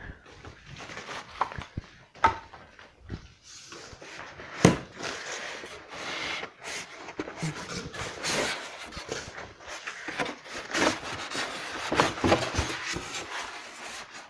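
A large cardboard TV shipping box being handled and its flaps pulled open: irregular cardboard scraping and rustling with scattered knocks, the sharpest knock a little under five seconds in.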